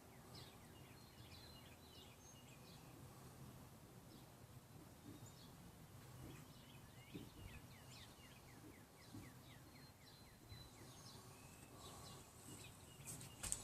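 Faint birdsong: scattered short chirps and a run of quick falling chirps, over a low steady background hum.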